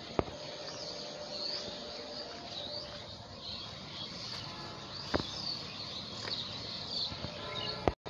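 Birds chirping in the background, with a few sharp clicks, one about five seconds in.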